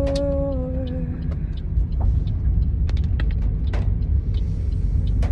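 A held sung note slides down and dies away about a second in, leaving the steady low rumble of a car driving, heard from inside the cabin, with scattered light ticks.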